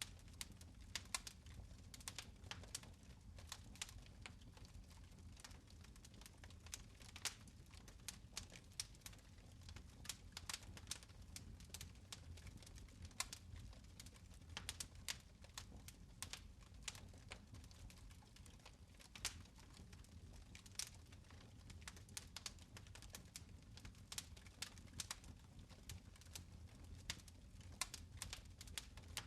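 Fire in a fireplace crackling softly: scattered sharp pops and snaps at an uneven rate over a low, steady rumble.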